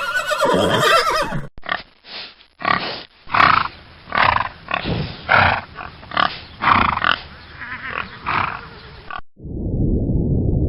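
Animal calls spliced from several recordings: a short wavering call, then a run of about ten separate short calls, then a steady low rumble near the end.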